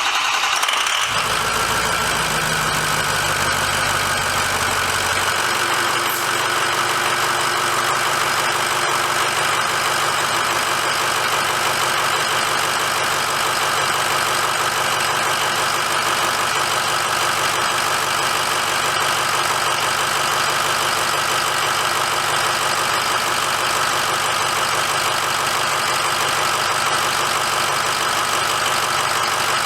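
Ford 6.0 L Power Stroke V8 turbo-diesel idling right after being started. It runs at a slightly different, fuller note for the first five seconds or so, then settles into a steady idle, letting fresh oil fill the new filter.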